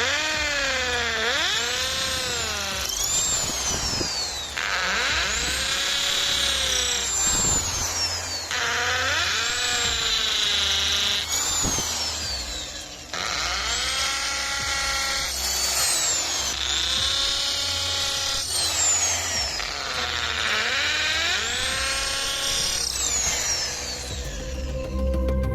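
Ingco ID11008 1100 W impact drill running in repeated bursts of a few seconds, its motor whine sagging in pitch and climbing back each time, as when it is working under load, with short breaks between bursts.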